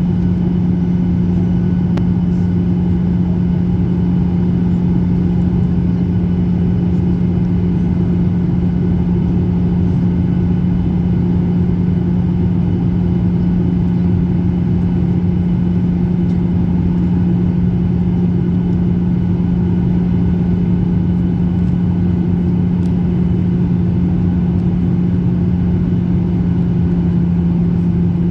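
Boeing 737 cabin noise from a seat by the wing: the jet engines and rushing air make a loud, steady drone with a strong low hum running through it.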